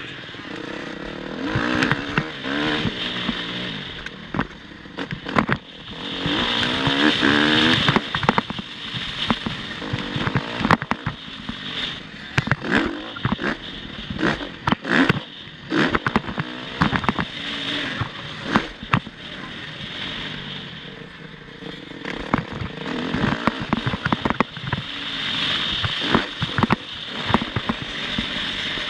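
Motocross bike engine revving up and falling back again and again as it is worked around the track, with many sharp knocks and crackles.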